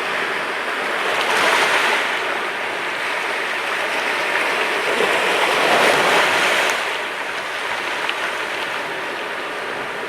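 Mediterranean sea waves breaking and washing onto the shore. A surge of surf swells about a second and a half in, and a bigger one builds around five to six seconds and falls away at about seven seconds.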